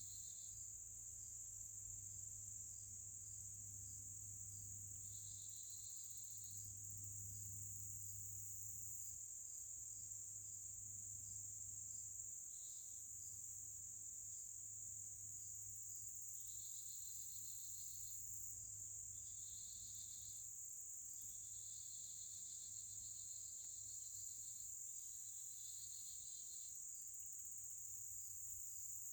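Insects, crickets among them, trilling faintly: one very high, unbroken trill, with a lower pulsing trill joining in short spells of a second or two, several times over.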